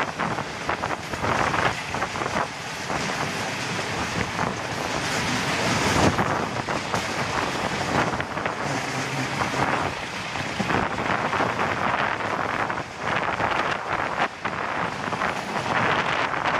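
A passenger train running at speed, heard from an open coach window, with wind buffeting the microphone in uneven gusts.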